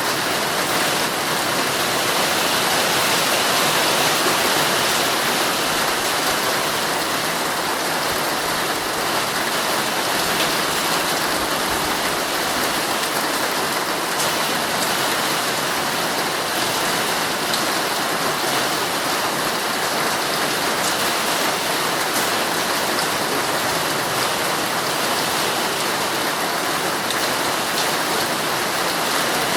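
Heavy rain falling steadily on a tent, a dense even hiss of drops.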